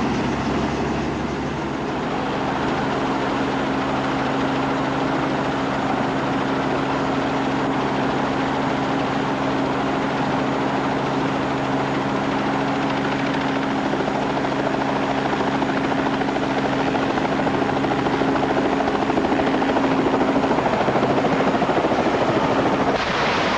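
Robinson R44 helicopter running, its six-cylinder Lycoming piston engine and rotors giving a steady hum that grows a little louder in the last several seconds. Near the end the hum drops away and the sound turns abruptly harsher and noisier.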